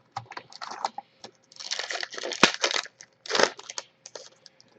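Trading-card pack wrapper crinkling and tearing, with cards rustling and clicking as they are handled, in irregular bursts, thickest in the middle.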